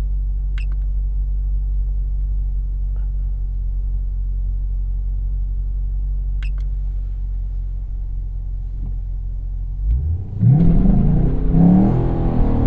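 2017 Chevrolet SS's 6.2-litre V8 idling steadily, heard from the driver's seat, then about ten seconds in a quick rev and a hard full-throttle launch, the engine note climbing and dipping as the car accelerates.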